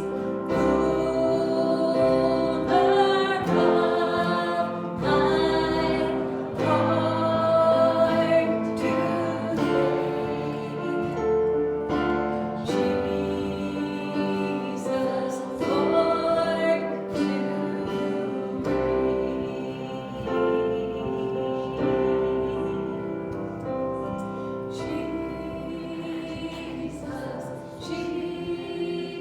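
Church worship music: voices singing a gospel-style song together with instrumental accompaniment, held notes and chords changing every few seconds.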